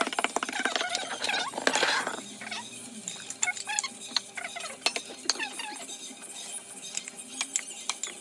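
Muffin batter being mixed by hand in a bowl: the utensil clicks and scrapes against the bowl again and again, with short high squeaky sounds mixed in, busiest in the first couple of seconds.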